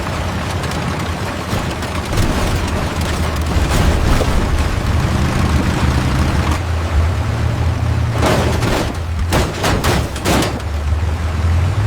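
Battlefield sound effects: a steady low rumble with a ragged volley of gunfire-like cracks and booms from about eight to ten and a half seconds in.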